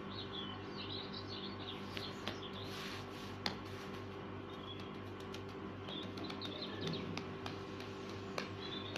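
Short high bird chirps in a few bursts over a steady low hum, with a few sharp clicks.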